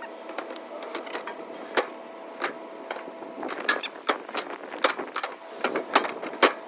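Degreaser sloshing inside an aluminum boat fuel tank as the tank is rocked back and forth, with irregular splashes, knocks and clunks against the metal walls.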